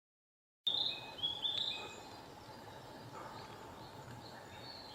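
Wild birds singing: after a brief silence, a burst of high, clear notes comes in just under a second in and lasts about a second, then fainter calls continue over quiet outdoor background.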